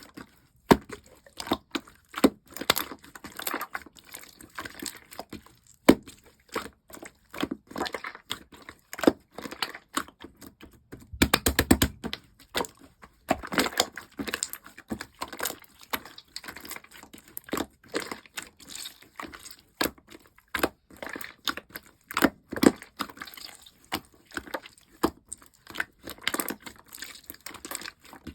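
Yellow pearl slime being squished and pressed by hand, making irregular sticky clicks and pops, with a fast run of clicks partway through.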